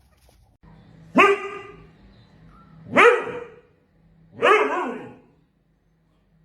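A domestic animal calls three times, about a second and a half apart. Each call is drawn out, rising then falling in pitch.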